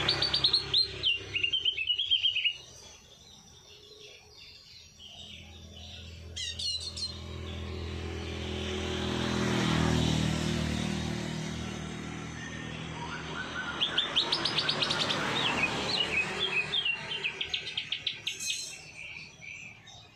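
Songbirds singing rapid chattering trills in two bouts, one at the start and a longer one from about two-thirds of the way through. In between, a low engine drone swells and fades as it passes.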